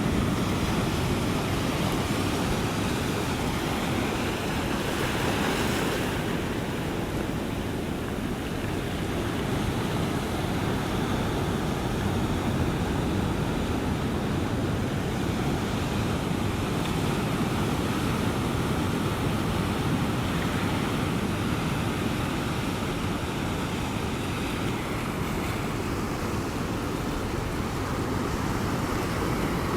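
Ocean surf: a steady rush of waves washing on the shore, with a brief brighter hiss about five seconds in.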